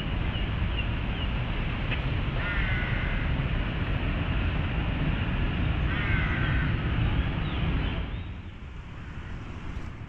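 Steady low rumble of city traffic with some wind on the microphone, easing a little near the end. A bird gives two short harsh calls over it, about 2.5 s and 6 s in.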